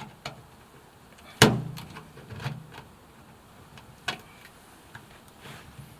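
A screwdriver knocking and clicking against a washing machine's door seal and its clamp ring as the clamp is located and pried at. There are a few sharp knocks, the loudest about a second and a half in, with fainter clicks between.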